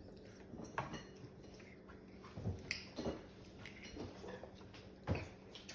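Scattered clicks and knocks of king crab shells and utensils being handled against dishes while the crab is eaten at a table. The loudest knock comes about five seconds in.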